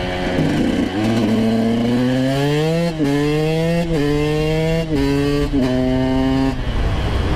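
Dirt bike engine accelerating hard and shifting up through the gears: the pitch climbs, drops back at each of four upshifts between about three and five and a half seconds in, then falls away as the throttle closes near the end.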